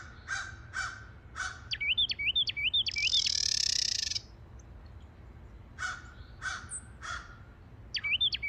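Carolina wren duet: the male sings a run of repeated rolling whistled notes and the female's harsh chatter call overlaps and follows it, about two seconds in; the male starts another phrase near the end. Crows caw several times at the start and again midway.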